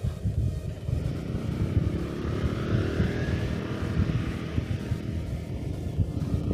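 Jet airliner engines passing on landing approach: a steady rumble with a whine that rises and then falls in pitch about halfway through.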